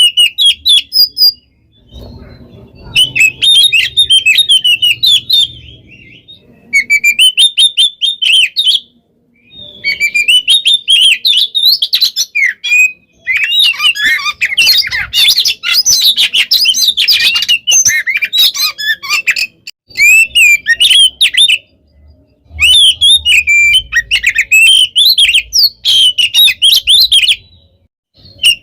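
Oriental magpie-robin (kacer) singing loudly in rapid, dense phrases of sweeping whistles, chatters and trills. The song comes in bursts of one to six seconds, about seven of them, separated by brief pauses.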